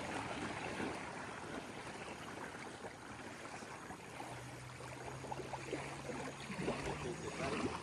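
Lapping water, with a faint steady hum that starts about four seconds in and stops near the end.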